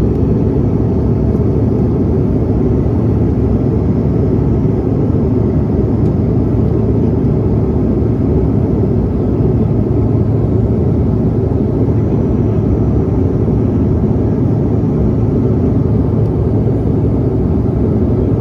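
Steady jet engine and airflow noise inside an airliner's cabin, a deep unchanging drone with a low hum.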